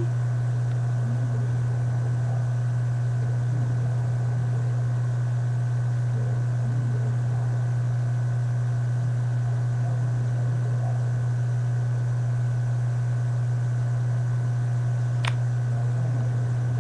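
A steady low hum over a faint hiss, unchanging throughout, with one faint click near the end.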